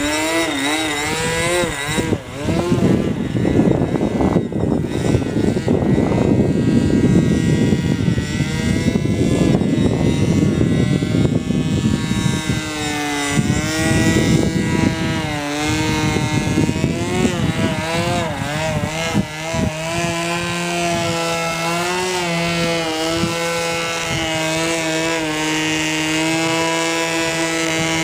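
O.S. .46AX two-stroke glow engine of an RC model airplane running in flight, its pitch rising and falling with throttle and the plane's passes. Heavy wind rumble on the microphone over the first half, then a steadier engine note.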